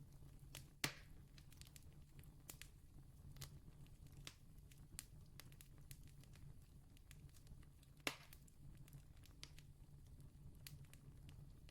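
Campfire crackling faintly, with scattered small snaps and two louder pops, about a second in and near eight seconds in, over a low steady hum.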